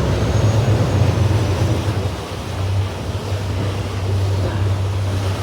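Passenger ferry's engines running with a steady low drone, over a hiss of wind and water noise.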